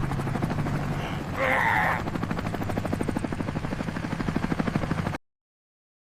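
A rapid, evenly repeating chopping over a steady low hum, like a helicopter rotor, with a brief louder noisy burst about a second and a half in. It cuts off abruptly about five seconds in.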